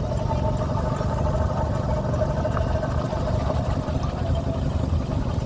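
An engine running steadily, a constant low rumble with a steady hum over it.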